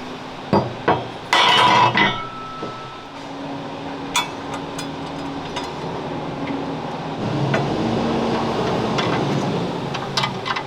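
Metal knocks and clanks on steel: two sharp knocks, then a louder clatter about a second and a half in that leaves a brief ringing note. A steady low hum follows and grows louder near the end.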